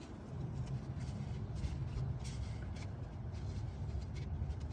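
Scattered rustling and light scraping as a sponge is wrapped around a pipe, over a steady low rumble.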